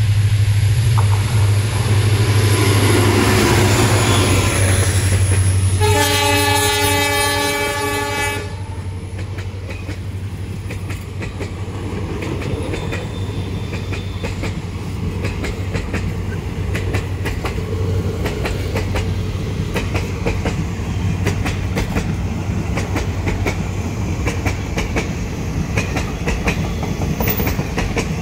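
A passing Indian train: the locomotive's steady low drone, a single long horn blast of about two and a half seconds some six seconds in, then the wheels clacking over the rail joints as the coaches roll by.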